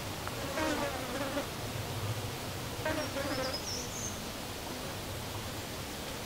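A flying insect such as a bee or fly buzzing past twice, its wavering drone passing close and fading, over a steady outdoor hiss. A short high bird chirp comes about three seconds in.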